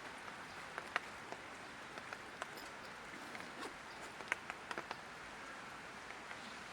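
Light rain falling: a steady soft hiss with individual drops ticking sharply and irregularly on nearby surfaces.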